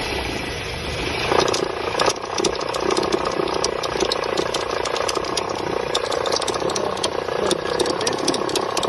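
Nissan Versa engine running, with a steady rattling noise from the air-conditioning compressor pulley and fast, irregular ticking that picks up about a second in. The compressor's internal pulley bearing is worn.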